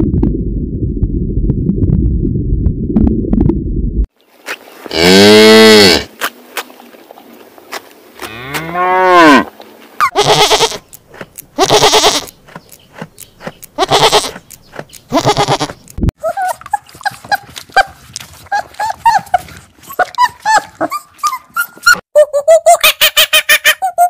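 Goats bleating, several loud calls about a second apart. Before them, a low rumbling noise lasts about four seconds, followed by two long calls that rise and then fall in pitch. After them come faint high chirps, then a fast, even pulsing near the end.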